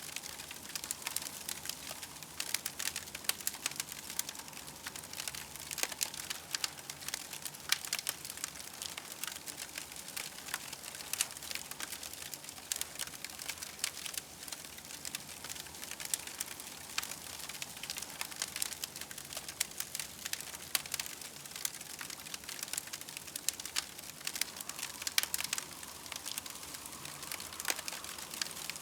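Campfire crackling steadily, with many small irregular pops and snaps over a soft hiss.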